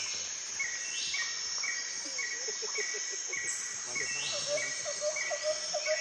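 Insects chirping, cricket-like: a short high chirp repeats about twice a second over a steady high-pitched buzz, and a quicker, lower ticking joins in during the second half.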